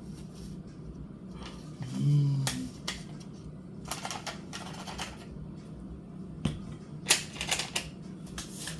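Crinkling and clicking of a boxed mac and cheese package being handled and opened at a kitchen counter. Scattered light clicks with a few short crinkly bursts, the loudest about four and seven seconds in.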